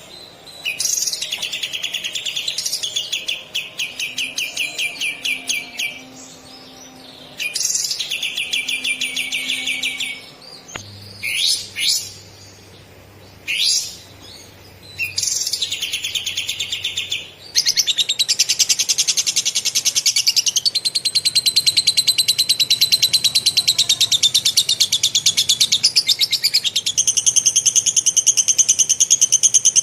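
A caged bird's fast, high trilling song in several phrases of a few seconds each, broken by short sharp chirps, then one long unbroken rolling trill from a little past halfway on: the fast, close-set long roll trained into birds by masteran recordings.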